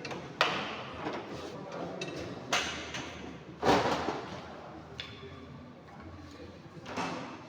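Workshop tools being handled and put away: four sharp knocks and clatters at uneven intervals over a steady background, the loudest a little past the middle.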